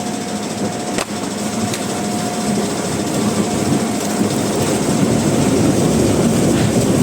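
Sawmill machinery running steadily, getting gradually louder, with a sharp knock about a second in.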